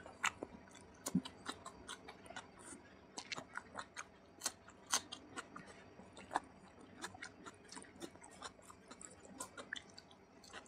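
Close-miked chewing of hand-fed mouthfuls of rice and oily curry, with many sharp, irregular wet mouth clicks and lip smacks.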